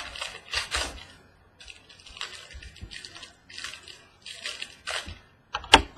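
Crinkling and rustling of packaging as a trading card box is handled and opened, in short irregular strokes, with a sharp snap near the end.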